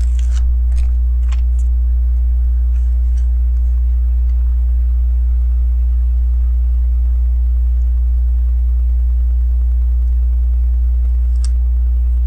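Loud, steady low electrical hum, with a few faint light clicks in the first second and a half and once more near the end.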